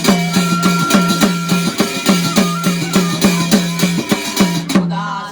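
Drum-led folk music: a fast, even drumbeat of about four to five strokes a second, with a held higher note over part of it, stopping suddenly near the end.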